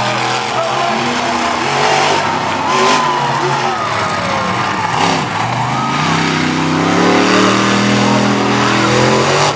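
Monster truck engines racing at high revs, the pitch wavering, dipping around the middle and climbing again as the trucks come back on the throttle.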